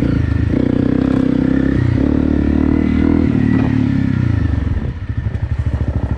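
Honda CRF250 Rally's single-cylinder engine running steadily under throttle. About five seconds in the throttle closes and the engine drops to low revs, chugging with separate firing pulses.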